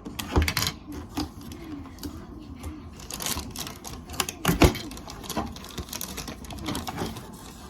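Plastic toy parts and packaging being handled, an irregular run of clicks, taps and rattles, with two louder knocks, one about half a second in and one just past halfway.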